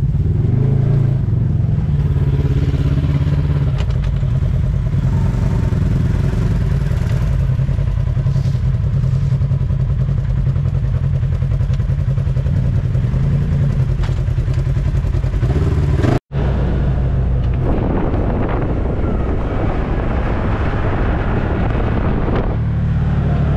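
Side-by-side UTV engine running steadily under way, a continuous drone. It cuts out for an instant about sixteen seconds in, then comes back with more rushing noise over it for a few seconds.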